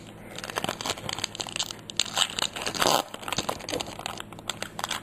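Foil booster pack wrapper crinkling and being torn open, with dense, irregular crackles throughout.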